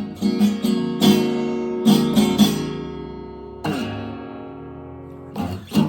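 Acoustic guitar strummed and plucked in a slow blues, the chords left to ring out between strokes and fading, with a last pair of strums near the end.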